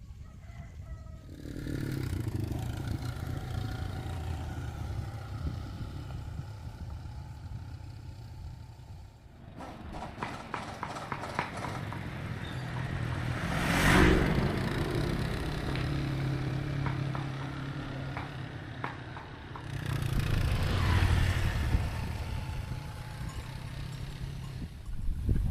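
A vehicle engine running steadily, with a run of rapid clicks about ten seconds in and a louder swell about fourteen seconds in.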